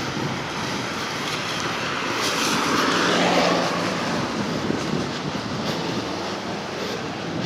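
A vehicle going past, its noise swelling to a peak about three seconds in and then fading.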